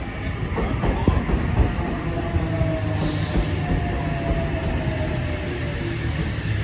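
Eight-car H set (Oscar) electric train running into a station platform and slowing, with a rumble of wheels and a faint, slowly falling whine. A brief hiss comes about three seconds in.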